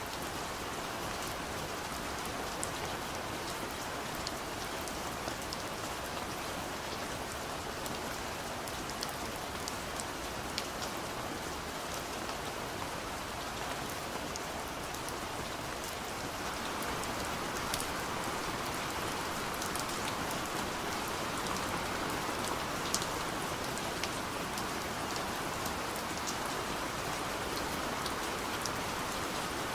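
Steady soft rain falling on a window pane, an even hiss with scattered small drop ticks, swelling slightly about halfway through.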